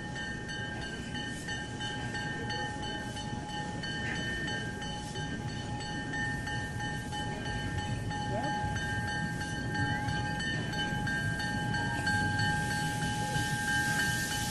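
Steam locomotive standing with a steady whine of several high tones over a low rumble, with a hiss building near the end.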